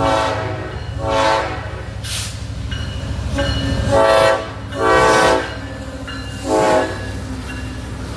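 Air horn of BNSF SD70ACE diesel locomotive 9234, sounding five short blasts over the low rumble of the approaching train.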